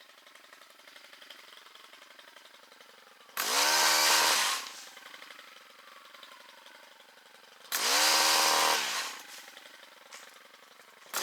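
Two-stroke chainsaw revved hard twice, each burst lasting about a second, the engine pitch climbing fast and then falling back toward a low idle. A third rev begins at the very end.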